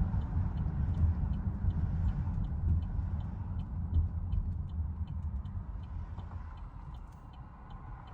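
2011 Chevrolet Camaro SS's 6.2-litre V8 running with a deep, uneven exhaust rumble that slowly fades. A light, regular ticking about twice a second runs alongside it.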